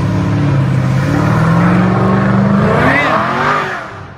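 A car engine running loud and revving, its pitch climbing after about a second and then falling away as the sound fades near the end.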